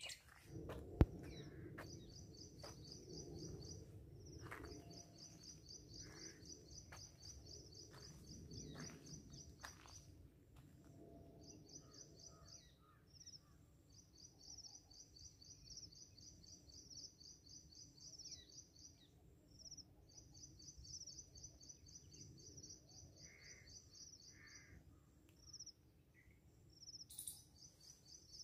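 Outdoor woodland ambience: a bird's high, rapidly repeated chirping trill runs in long stretches of several seconds with short breaks. There is a sharp knock about a second in and low rustling through the first ten seconds.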